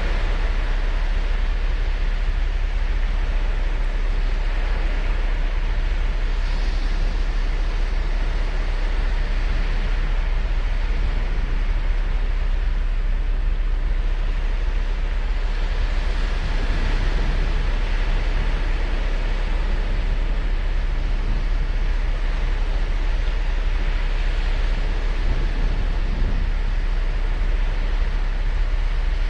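Ocean surf on a sandy beach: a steady wash of breaking waves with a deep rumble underneath, and the hiss of a wave swelling up now and then, about every several seconds.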